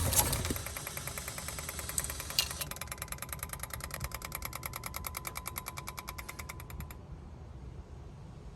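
A Toyota 4A-FE engine that has been idling shuts off and dies away, followed by a few sharp clicks. Then comes a fast, even ticking that stops suddenly about seven seconds in.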